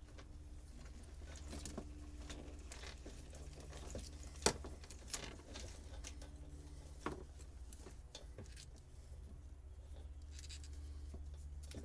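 Scattered small clicks and knocks of old boat wiring and its plugs being handled and pulled, the sharpest about four and a half seconds in, over a steady low hum.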